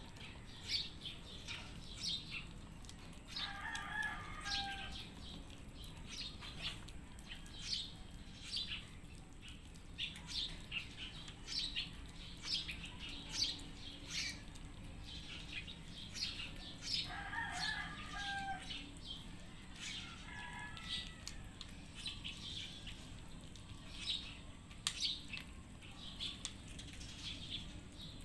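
Cats chewing and crunching dry kibble mixed with wet cat food, a steady run of irregular clicky crunches. Three brief high calls, each about a second long, stand out over the crunching.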